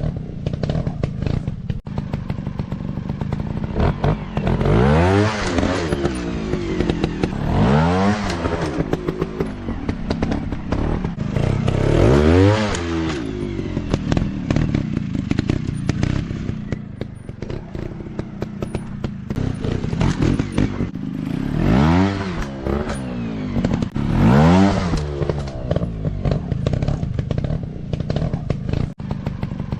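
Dirt bike engines running and revving in repeated surges, the pitch climbing and falling about five times, with clattering and knocks throughout.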